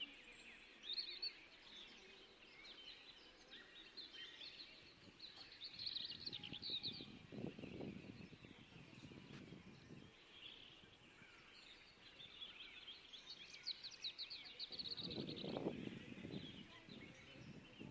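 Faint twittering of small birds in the background, many short chirps throughout. A low rumble comes in twice, about seven seconds in and again about fifteen seconds in.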